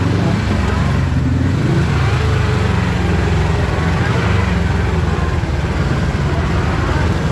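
Kawasaki KRX4 1000 side-by-side driving along a trail, its parallel-twin engine running steadily under way.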